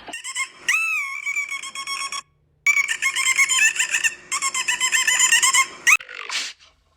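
Dolphin whistling and squeaking: a run of high, wavering whistles with a rapid warble, broken by a short gap about two seconds in.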